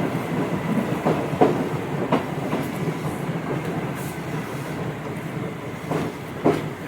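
Tobu 8000 series electric train heard from on board, running with wheels clicking over rail joints in pairs. The running noise grows gradually quieter as the train slows for its next stop.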